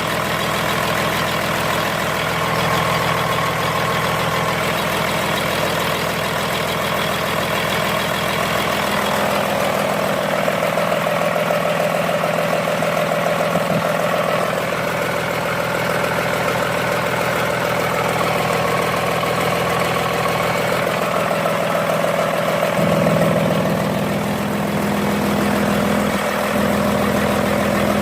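Komatsu SA6D125-series six-cylinder diesel engine running steadily at idle during a running test. About 23 seconds in its note changes and it gets a little louder.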